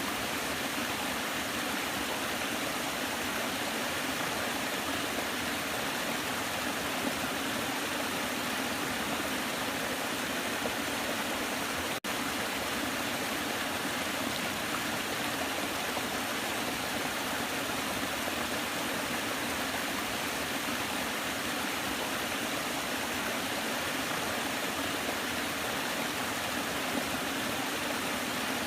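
Waterfall: a steady, unbroken rush of falling water, with a momentary dropout near the middle.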